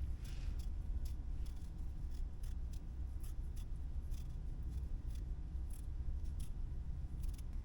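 Irregular crisp snips and clicks, a few a second, from cutting during food preparation, over a steady low rumble.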